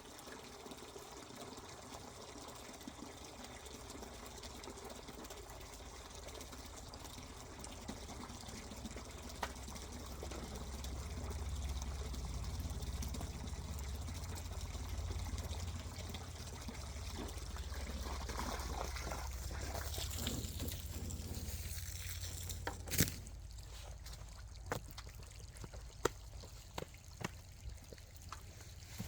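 Water pouring and trickling steadily as the pigs' water is filled, easing off about three-quarters of the way through, followed by a few sharp clicks and knocks.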